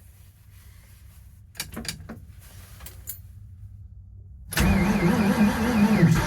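A few clicks, then about four and a half seconds in the 1978 Ford Bronco's V8 with Holley Sniper fuel injection starts from cold below freezing and runs unevenly.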